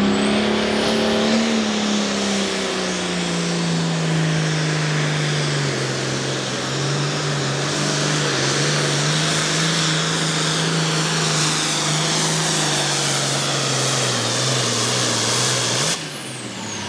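Turbocharged diesel engine of a Pro Farm pulling tractor running hard under load, its pitch slowly sagging as it bogs down pulling the sled, with a shrill turbo whistle above it. Near the end the engine cuts off abruptly and the turbo whine winds down.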